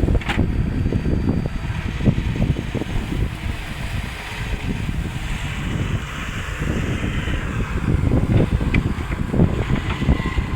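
Excavator engine running, with wind buffeting the microphone.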